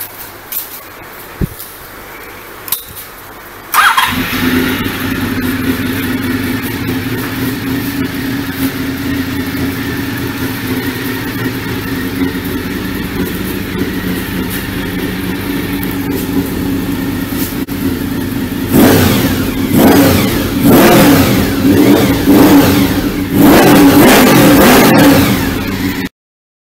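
Honda VFR750R's V4 engine starting up about four seconds in after a few light clicks, then idling steadily. In the last third it is blipped in a run of short revs.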